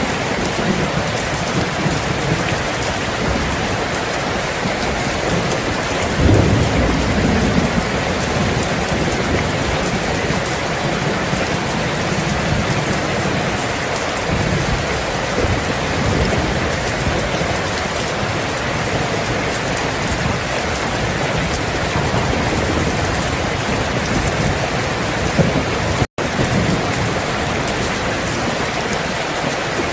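Steady heavy rain with rolling thunder rumbling low underneath, swelling loudest about six seconds in. Near the end the sound cuts out for an instant.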